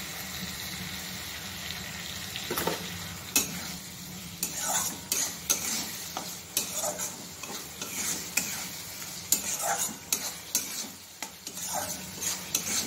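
A thick potato-and-spice masala sizzles as it fries in oil in a steel kadai. From about two and a half seconds in, a metal spatula stirs it and scrapes the pan in repeated strokes.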